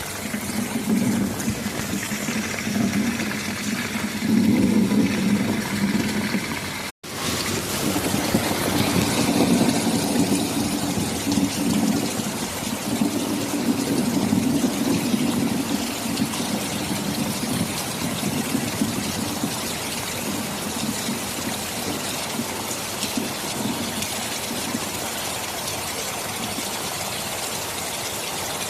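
Heavy rain falling steadily, with low rolling thunder rumbles that swell and fade. The sound cuts out completely for an instant about seven seconds in.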